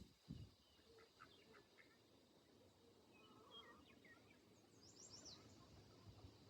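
Faint farmyard birds: scattered soft chirps in the first couple of seconds and a brief quick high trill about five seconds in, with a soft low thump near the start.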